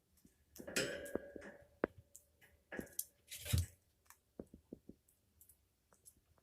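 African grey parrot's scratchy rustling and small beak clicks, with a longer scratchy stretch about a second in and a louder one ending in a thump just past the middle, then scattered light clicks.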